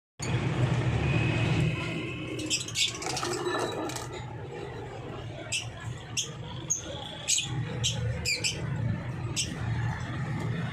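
Small caged parrots chirping and squawking in short, sharp calls scattered throughout, over a steady low rumble in the background.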